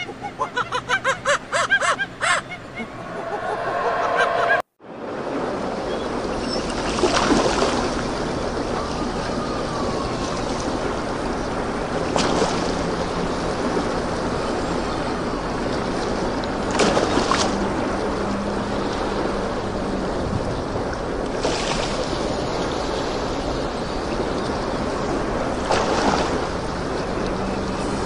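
Honking bird calls for the first few seconds, cut off abruptly. Then steady surf, with a wave breaking about every four to five seconds.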